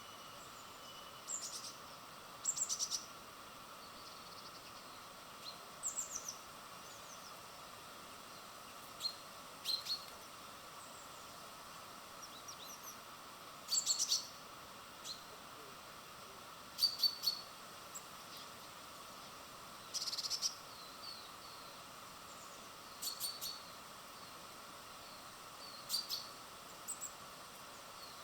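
Songbirds chirping: short, high chirps in brief clusters every few seconds, over a steady faint background hiss.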